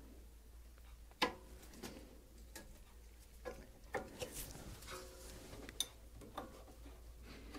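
Scattered light metallic clicks and knocks of hand tools being handled while the brake bleed screws are opened, the sharpest about a second in, over a faint steady low hum.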